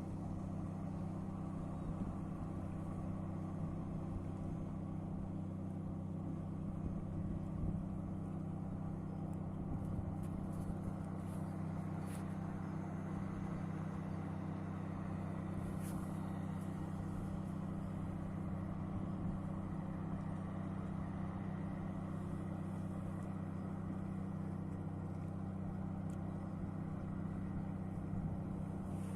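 Boat engine running steadily at an even speed, a low constant drone.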